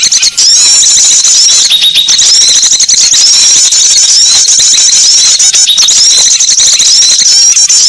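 Loud, dense chorus of many small songbirds chirping and twittering rapidly in high, overlapping notes: a recorded lure call used to draw small wild birds in for trapping.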